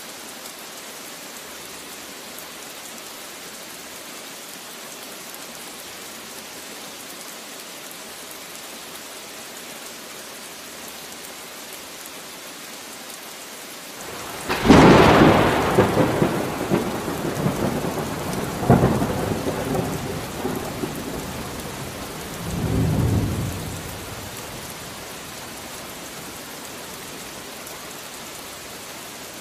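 Steady rain with a clap of thunder about halfway through: a sharp crack that rumbles on with two more swells and dies away over about ten seconds, then rain alone again.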